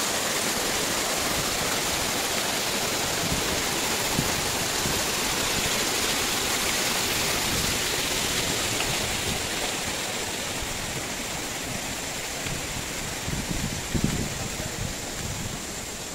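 Rushing river water, a steady hiss that grows fainter in the second half, with a few soft knocks near the end.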